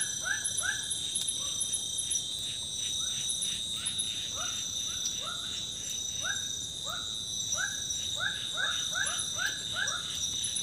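A forest night chorus: insects trill steadily at a high pitch, while a calling animal gives short rising notes over and over, several a second, in irregular runs that thin out for a while in the early part.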